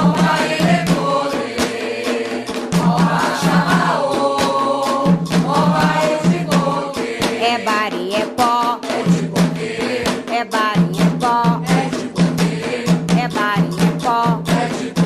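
Candomblé sacred song for Xangô: voices chanting in chorus over fast, continuous hand drumming and percussion.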